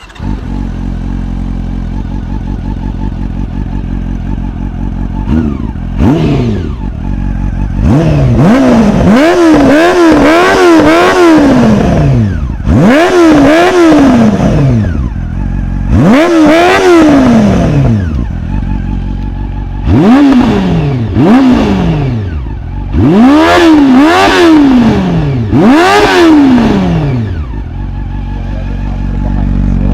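Honda CB400 Super Four Hyper VTEC Revo's 399cc inline-four, breathing through an IXIL slip-on exhaust with no baffle, starting up and idling. From about six seconds in it is revved repeatedly in quick blips, each rising and falling in pitch, and it drops back to a steady idle near the end.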